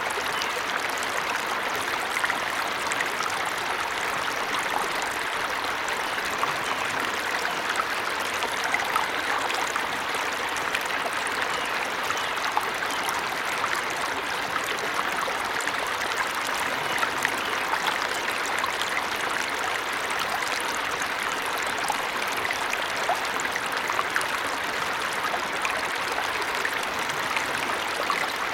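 Waterfall in a forest, a steady, even rush of falling water that does not change.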